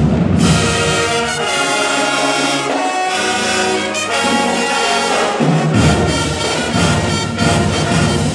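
School marching band playing: the brass holds loud sustained chords, then the drums and low end come back in strongly about two-thirds of the way through.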